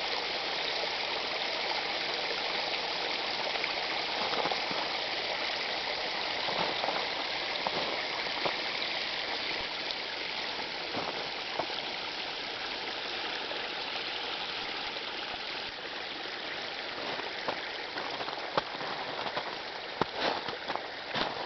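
Water pouring steadily over a small homemade waterfall, a continuous rush, with a few sharp clicks near the end.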